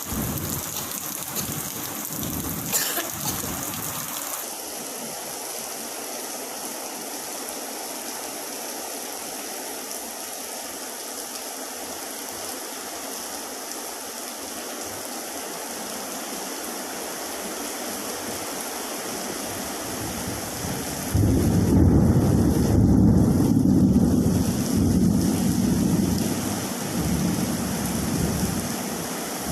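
Steady heavy rain falling, with a loud rumble of thunder about two-thirds of the way through that lasts several seconds before fading.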